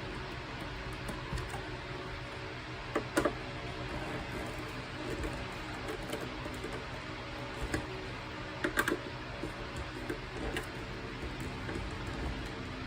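Scattered light clicks and taps of small parts and screws being handled during reassembly, loudest in two brief clusters about three seconds in and about nine seconds in, over a steady low hum.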